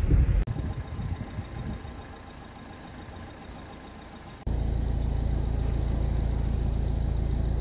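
Car engine noise: a low rumble that fades away over the first few seconds, then, after an abrupt cut, a steady low idling drone.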